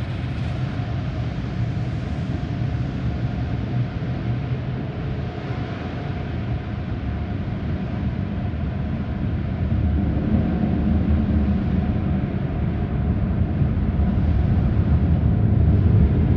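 Car wash tunnel equipment running: a steady low rumble that grows louder about ten seconds in.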